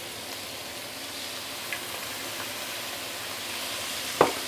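Roast pork and Chinese leeks sizzling steadily in a hot wok, with a single sharp click near the end.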